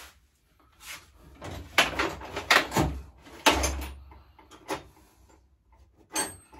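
Metal tools clattering and knocking in a run of separate clanks with short gaps, as someone rummages through a toolbox for a 13 mm tool.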